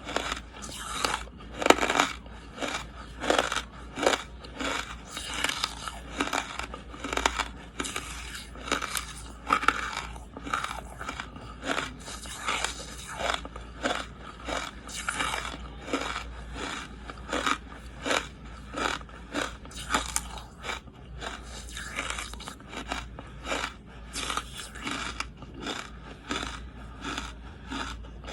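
Close-miked biting and chewing of charcoal: repeated sharp, dry crunches, about one or two strong ones a second with smaller crackles between, over a steady low hum.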